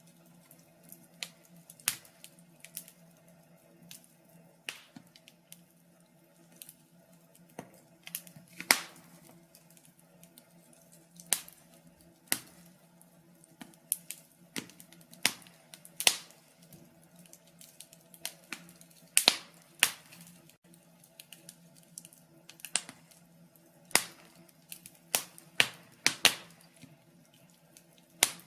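Wood fire burning in a fireplace, crackling with sharp irregular pops, some loud and some faint, at uneven intervals. A faint steady low hum lies beneath.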